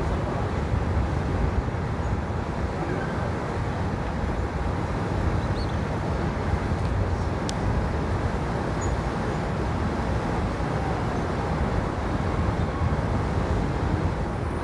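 Steady low rumble and hiss of aircraft engines running at a distance, with a faint steady whine over it. A single sharp click about halfway through.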